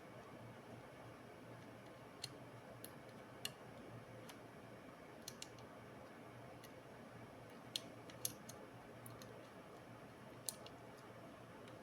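Scattered small, sharp clicks, about ten at uneven intervals, from laptop parts and small tools being handled, over a faint steady hum.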